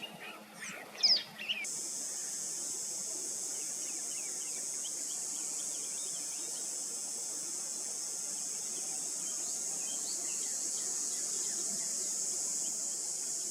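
Northern cardinal singing sharp, down-slurred chirps, loudest about a second in, that cut off suddenly. After that comes a steady, high-pitched insect chorus with faint bird chirps.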